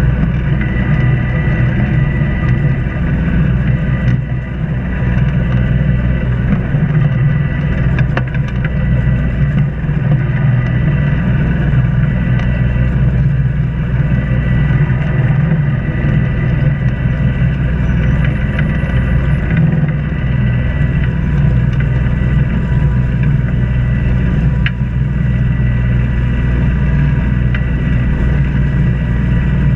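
Sailboat's inboard engine running steadily while motoring, a constant low hum with a faint steady whine above it.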